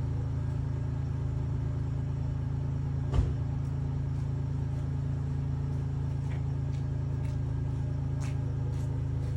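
2003 Toyota Tacoma's 3.4-litre V6 idling steadily, about a minute and a half after a cold start from two weeks sitting. A single sharp knock about three seconds in, with a few faint light ticks later.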